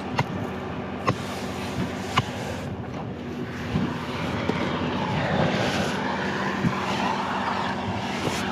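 Concrete mixer truck engine running steadily, with sharp light knocks about once a second and a hiss that swells for a few seconds in the middle.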